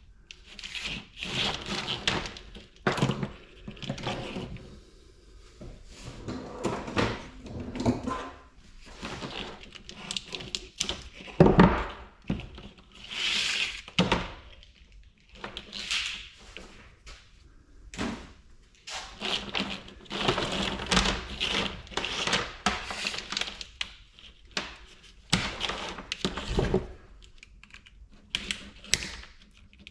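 Thick tin-coated copper wire being stripped of its insulation by hand: irregular scraping and tearing of the jacket, with knocks of the heavy wire against the bench.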